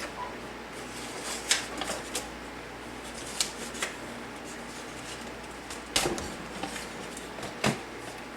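Irregular clicks, taps and light knocks of small objects being handled, with the loudest knocks about six seconds in and again shortly before the end.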